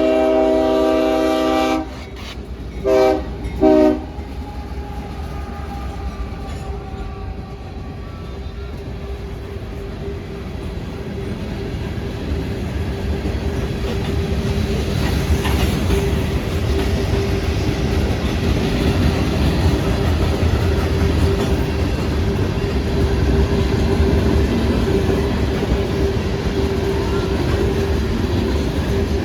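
Diesel locomotive horn giving a salute: a long blast that ends about two seconds in, then two short toots. The train then rolls past with a steady rumble of wheels on rail and clickety-clack, growing louder toward the middle.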